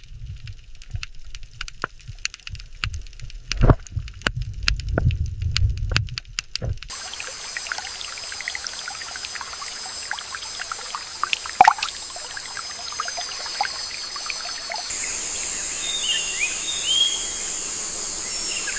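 Outdoor nature sound that changes twice: first a low rumble of water with splashes and drips, then a steady hiss with scattered clicks, and from about two-thirds of the way in a steady high insect drone with a few short bird chirps.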